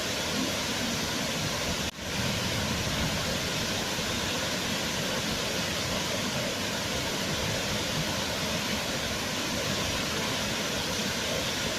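Waterfall: a steady, even rush of falling water, with a brief drop in level about two seconds in.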